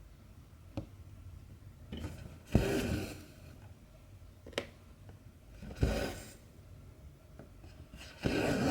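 Two strands of cotton embroidery thread pulled through 14-count cross-stitch fabric: three swishes, each under a second, about three seconds apart, with short sharp clicks of the needle going through the fabric between them.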